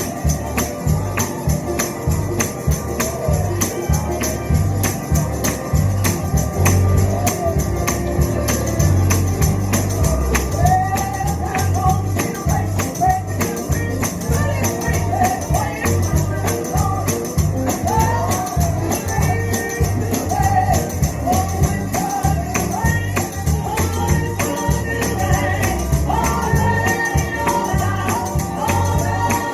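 Live gospel music with a tambourine shaken on a steady beat and a band playing. Singing runs over it and is strongest in the second half.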